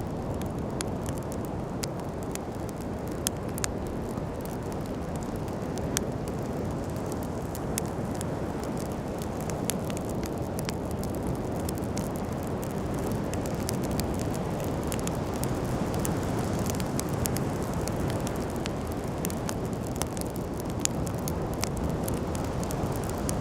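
Wood campfire crackling, with frequent sharp pops and snaps over a steady low rushing noise.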